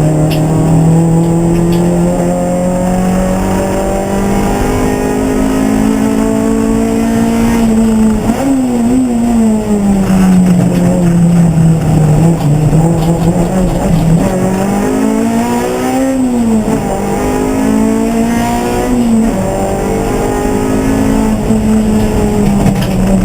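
Race car engine running continuously under load, its pitch climbing slowly and then falling and rising again several times as the car speeds up and slows.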